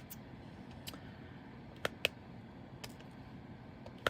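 About five small, sharp clicks at uneven intervals from a diamond-painting drill pen pressing resin drills onto the canvas, over the steady hum of an electric fan.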